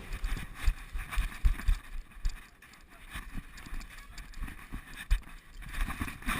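A person moving close to the microphone: irregular low thuds, like footsteps or gear knocking, with rustling handling noise.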